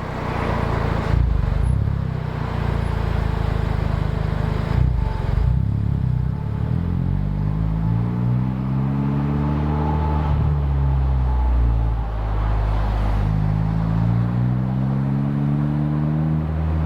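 Exhaust of a Honda Civic Type R FK8's 2.0-litre turbo four-cylinder, recorded at the tailpipe, with a catted downpipe, aftermarket front pipe and stock cat-back. It runs at low revs, then twice the engine pulls with its pitch climbing for a few seconds before falling back.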